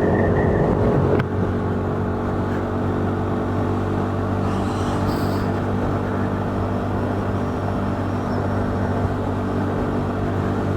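KTM 390 Duke's single-cylinder engine running at steady revs while riding, with wind noise rushing over it. The sound eases slightly about a second in, then holds steady.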